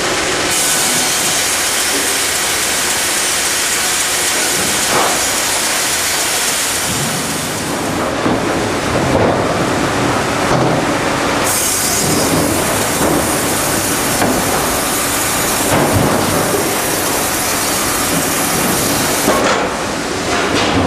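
Sawmill line machinery running: a loud, steady mechanical noise, with a high hiss that cuts in about half a second in, drops out about a third of the way through, returns about halfway and stops near the end.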